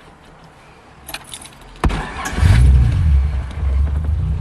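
Datsun 510's swapped-in Nissan VG30 V6 starting from cold: keys jingle in the ignition, then about two seconds in the engine cranks briefly, catches at once and settles into a steady low idle.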